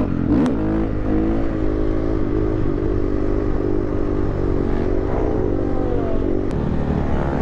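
Dirt bike engine running under way, its note rising and falling with the throttle, with a quick rev about half a second in and a shift in engine note near the end.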